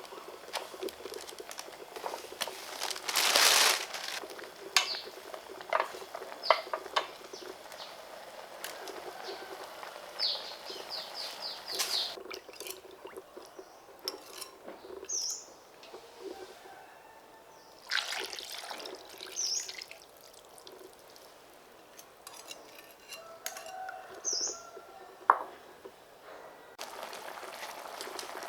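Close-miked eating of instant noodles and braised pig's feet: irregular wet slurps, lip smacks and sharp chewing clicks, with brief squeaky mouth sounds and short pauses between bites.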